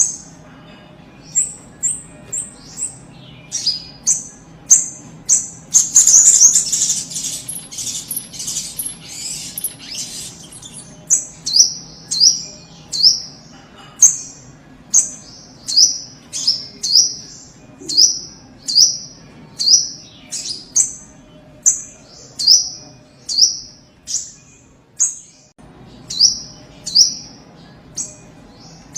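A sogok ontong sunbird singing: a long run of short, high, falling notes repeated a little faster than one a second. A denser burst of rapid twittering comes a few seconds in, and there is a brief pause near the end. A faint low hum lies underneath.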